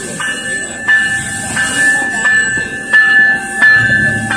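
Coaster commuter train pulling into the station, cab car leading, while a bell strikes steadily about once every 0.7 seconds. The train's low rumble grows near the end as the cab car passes close by.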